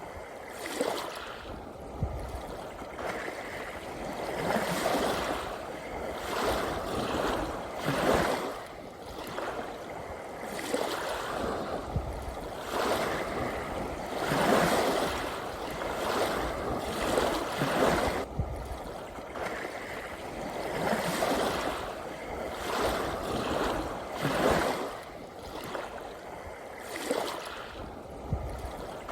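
Ocean surf: waves washing in and drawing back, the rushing noise swelling and falling every few seconds, with a few brief low thumps underneath.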